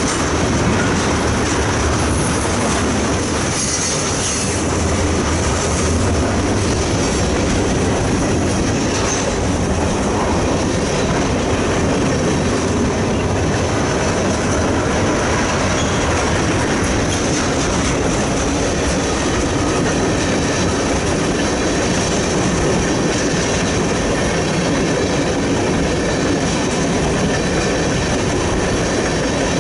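Freight train cars rolling steadily past, with wheels clattering on the rails and a thin high squeal from the wheels running throughout.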